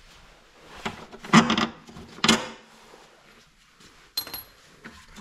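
Short knocks and scrapes of metal and wood from work under a car's rear suspension as a jack is lowered onto a wooden block: three rough scrapes in the first two and a half seconds, then a sharp metallic clink with a brief ring about four seconds in.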